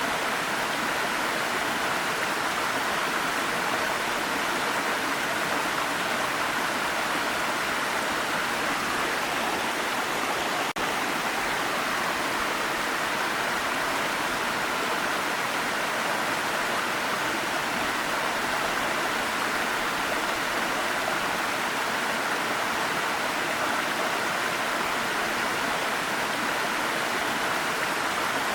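Waterfall: water falling and rushing in a steady, even noise, with a momentary dropout about eleven seconds in.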